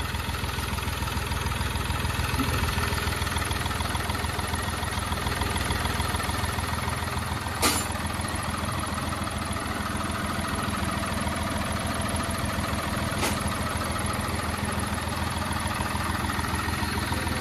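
Rebuilt Hyundai Xcent diesel engine idling steadily, running just after its injectors were bled of air and its resealed fuel pump refitted. Two sharp clicks come through, about eight and thirteen seconds in.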